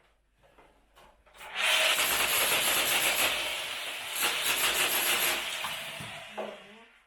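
A continuous rough scraping, starting about a second and a half in and fading away near the end, as demolition rubble and plaster are scraped or shifted.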